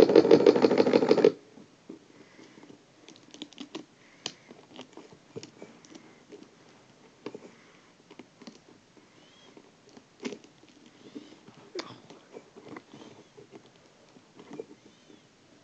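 Small electric motor of a homemade belt-driven spinning gadget buzzing loudly, cutting off suddenly about a second in. After that, scattered faint clicks and taps.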